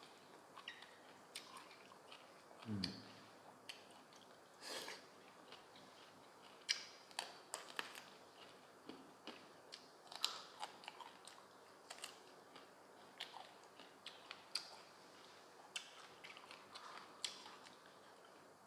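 A person chewing crunchy food close to the microphone, with crisp crunches and mouth clicks at irregular intervals.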